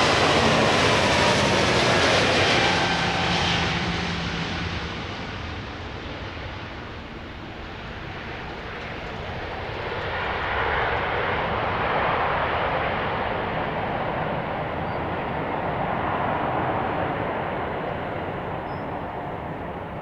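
Jet airliner's engines passing by, a whine that falls in pitch as it goes past and fades within the first few seconds, followed by a rushing engine roar that swells twice and slowly dies away.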